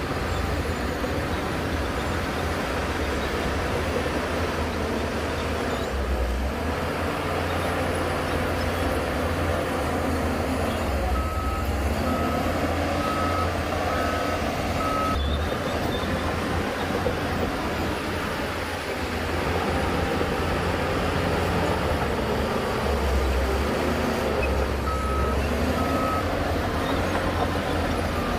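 Heavy earthmoving machinery, a diesel bulldozer and dump trucks, running steadily under load. A reversing alarm beeps at an even pace for about four seconds in the middle, then twice more near the end.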